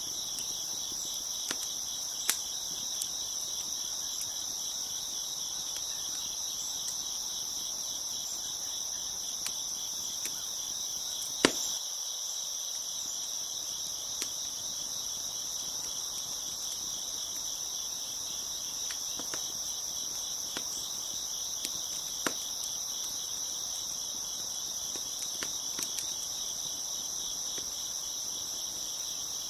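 Crickets chirping in a steady, continuous chorus, with a crackling wood fire giving scattered sharp pops; the loudest pop comes about eleven seconds in.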